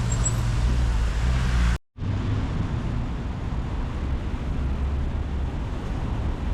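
Street ambience with a steady low rumble of road traffic, broken by a brief total silence at an edit about two seconds in.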